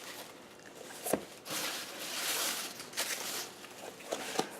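Hands rustling and handling paper craft pieces, with a sharp click about a second in and a few light taps near the end.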